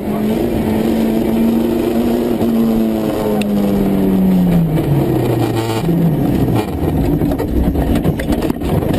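Rally car engine running hard at steady high revs, then dropping in pitch as the throttle is lifted, with a brief blip of revs. It gives way to a loud rough rumble with scattered knocks from the car on the road surface.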